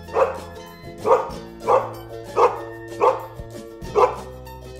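A dog barking over and over at an even pace, about seven barks, each short and sharp, over background music with sustained notes.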